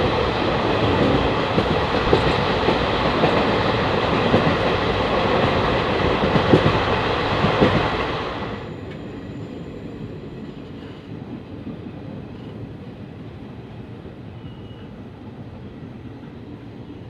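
Passenger train running at speed, heard from beside a coach door: a loud rush of wheels on rail and wind with a few sharp rail-joint knocks. About eight seconds in it drops suddenly to a much quieter, duller rumble as the train runs slowly into a station.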